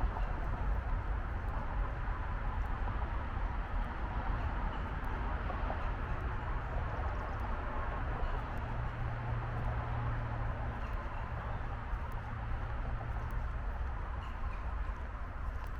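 Steady rumble of distant highway traffic, with a low hum swelling in the middle. A few faint bird chirps.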